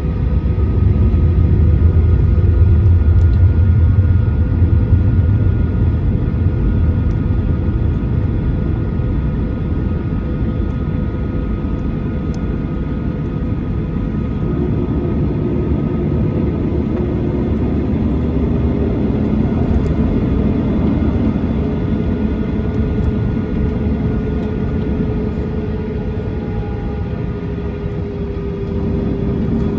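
Cabin noise of a Boeing 737-800 in flight: the CFM56 turbofans and airflow give a steady drone with a constant whine over it, a little louder in the first few seconds.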